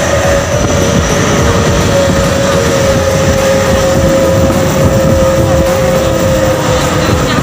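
Sugarcane-loaded truck's engine running hard through a loud 'srigala' aftermarket exhaust: a steady drone with one high held tone.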